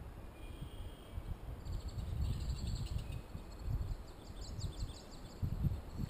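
Small birds singing: a few high chirps, then a fast trill of rapidly repeated high notes from about a second and a half in, over a low, uneven rumble.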